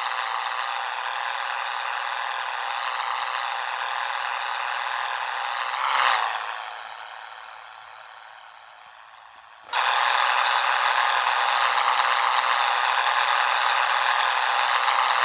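Scania 113 truck's six-cylinder diesel engine running steadily, heard without its deep low end. About six seconds in it swells briefly and then fades away, and just before ten seconds it comes back suddenly at full level.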